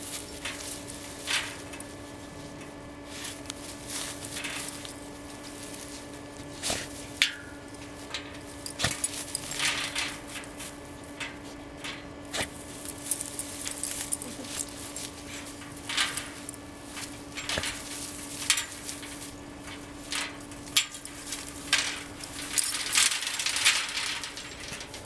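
A puppy moving about, with scattered short clicks, rustles and jingles over a steady low hum.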